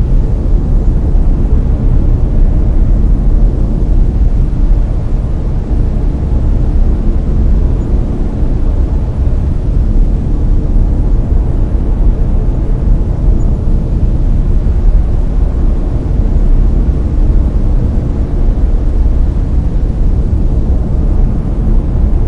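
Layered brown noise: a loud, steady, deep rumbling hiss, strongest in the bass and falling away toward the treble, with no tones or events.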